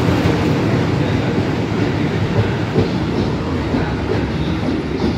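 Electric locomotive passing close by: a loud, steady rumble of wheels on rail and running gear, easing off slightly, with a few short knocks from the wheels.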